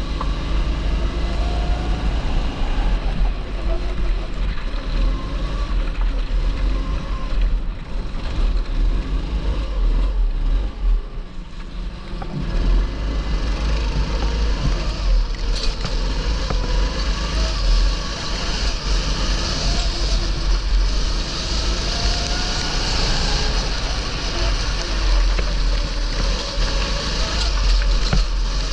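270cc TB rental kart's single-cylinder four-stroke engine running on track, its pitch rising and falling again and again as it revs up on the straights and drops for the corners, with heavy wind rumble on the onboard microphone.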